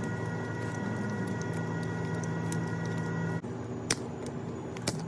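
A small electric motor, likely a handheld power tool, runs at a steady pitch with a high whine and cuts off abruptly about three and a half seconds in. It is followed by a couple of sharp clicks, like metal parts or tools being handled.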